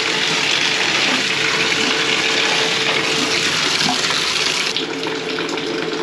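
Toilet refilling after a flush: water hissing steadily through the fill valve with a faint steady whine, the hiss easing somewhat near the end.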